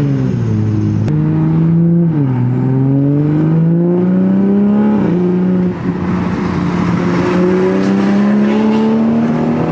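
2020 Toyota Supra's B58 turbocharged inline-six through its Tomei exhaust, pulling through the gears. The engine note climbs steadily in pitch, drops at an upshift about two seconds in and another about five seconds in, then climbs again to near the end.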